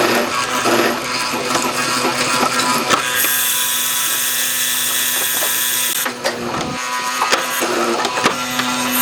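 Background guitar music, with a power tool running steadily for about three seconds in the middle, a high even whir that stops suddenly.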